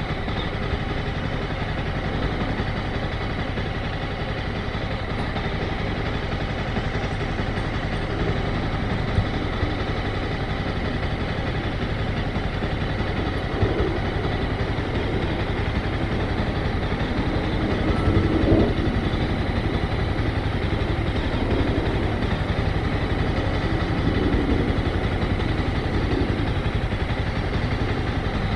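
Motorcycle engine running steadily at low revs, with a brief swell in level about two-thirds of the way through.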